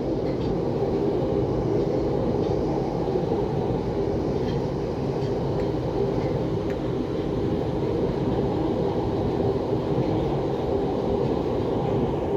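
Steady running noise of a London Underground Piccadilly line 1973 Stock train at speed, heard from inside the carriage: a constant low rumble with no change in level.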